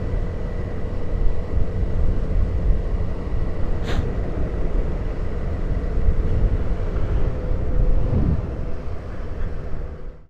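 Motorcycle on the move recorded by the rider's own camera: a steady low engine and wind rumble, with one sharp click about four seconds in and a brief falling tone around eight seconds, fading out near the end.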